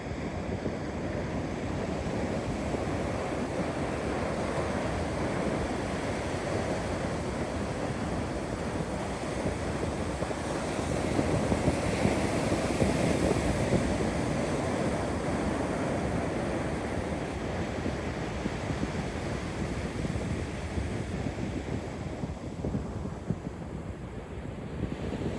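Pacific Ocean surf breaking and washing on a beach: a steady rushing that swells about halfway through and eases near the end, with wind buffeting the microphone.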